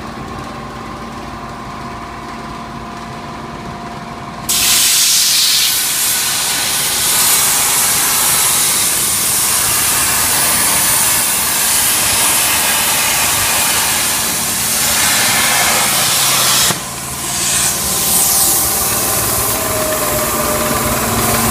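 Steady machine hum with several held tones, then about four and a half seconds in a CNC plasma cutter's torch strikes its arc and cuts with a sudden, loud, steady hiss. The hiss dips briefly near the end and then resumes.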